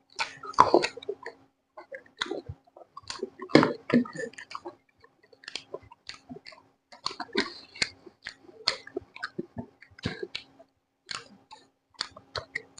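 A person chewing chicken close to the microphone, with irregular wet smacks and clicks of mouth and teeth and a few louder bites about a second in and near the 3.5-second mark. A faint steady hum sits underneath.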